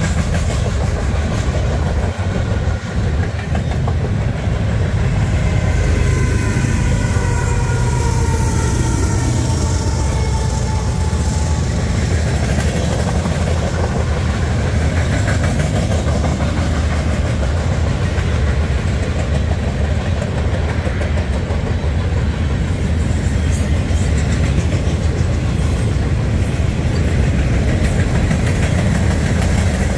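Freight cars of a Union Pacific manifest train rolling steadily past at trackside: a continuous loud rumble of steel wheels on rail. A high, wavering squeal sounds for several seconds near the start.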